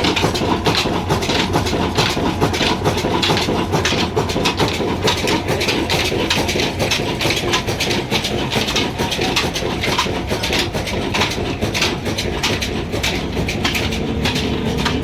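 Old Ruston diesel engine running under load, driving a flour mill (atta chakki): a steady, fast, even mechanical clatter.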